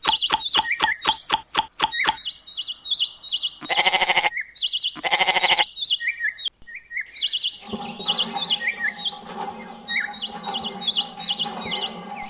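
Small birds chirping in short repeated notes, with two drawn-out bleats of a sheep or goat about four and five seconds in. A rapid clicking, about five clicks a second, stops about two seconds in. A steady low hum starts near the end.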